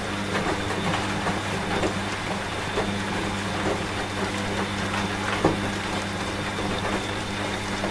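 A washing machine running with a steady hum, mixed with steady rain and scattered drops.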